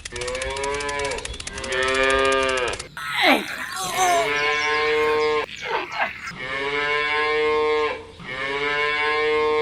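Cattle mooing over and over, about six long drawn-out calls one after another. A few quick downward-swooping sounds fall between the calls.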